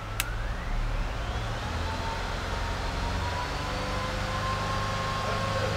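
2006 Ford Escape's V6 engine revved up and held at raised speed during a charging-system test of a newly fitted alternator: a whine rises in pitch over about two seconds and then holds steady over the engine's running drone. A sharp click comes just after the start.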